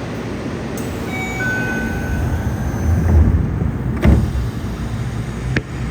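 Yokohama subway 3000N train sounds: a steady low rumble, a brief pitched tone about a second and a half in, and sharp knocks, the loudest about four seconds in.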